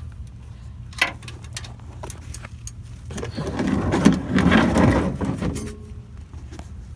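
Ratchet and socket working on a truck's oil drain plug: a few sharp metal clicks and knocks, then a louder stretch of rapid ratchet chatter and scraping for a couple of seconds in the middle. The plug is stuck tight.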